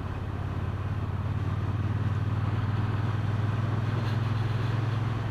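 Motorcycle engine running steadily under way, a low steady note over a rushing hiss of wind and road noise, getting a little louder over the first two seconds.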